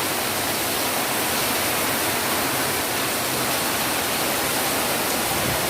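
Heavy tropical downpour driven by strong wind: a steady, even rush of rain noise that does not let up.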